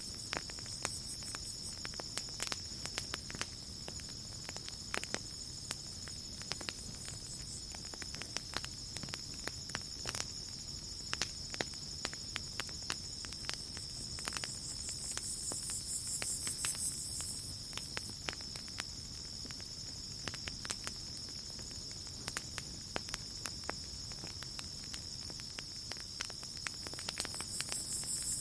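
Campfire crackling with sharp pops scattered throughout, over a steady chorus of crickets trilling. A second, pulsing high insect call swells in about halfway through and again near the end.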